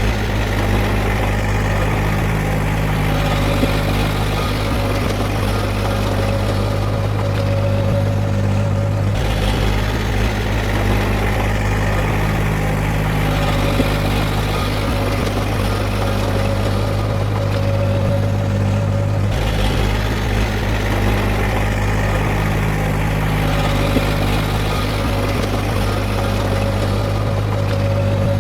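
Heavy diesel engine of earthmoving machinery running steadily, with its tone shifting abruptly about nine and nineteen seconds in.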